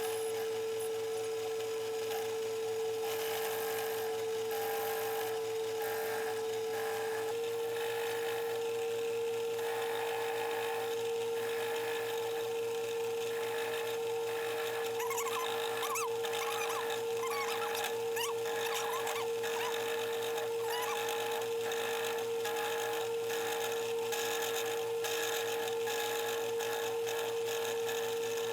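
A workshop machine tool's motor running steadily with a constant high whine, its pitch stepping up slightly about seven seconds in. Faint short squeaks come through between about fifteen and twenty seconds.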